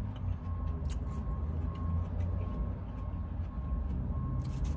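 Steady low rumble of a car's engine idling, heard inside the cabin, with faint clicks from chewing and a fork on the plastic tub.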